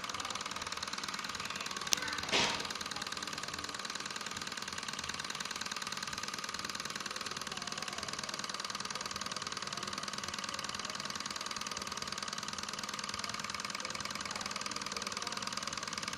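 Small model Stirling engine running at a steady speed with a fast, even mechanical clatter. A sharp click and a short knock come about two seconds in.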